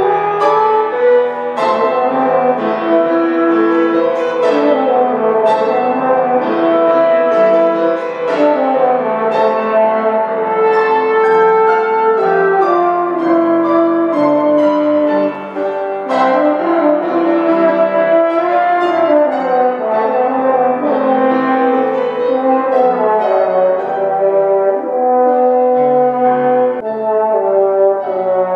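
A solo brass instrument playing a slow melody with sustained notes, accompanied by piano.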